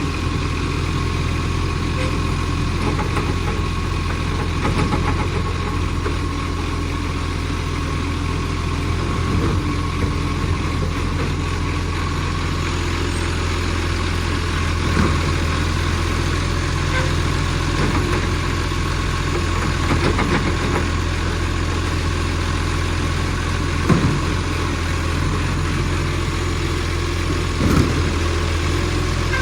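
Commercial garbage truck's diesel engine running steadily at a constant low speed, with the sound of an exhaust leak. A few short knocks stand out over it.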